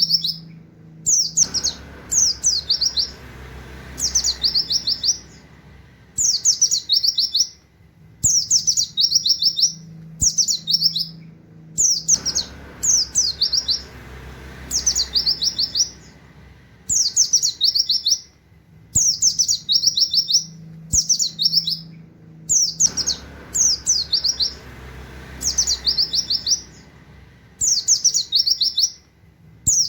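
White-eye (pleci) singing in short bursts of rapid, high 'wit wit' notes, each note a quick downward sweep, the bursts repeated every second or two in the fast canary-like 'nembak' style.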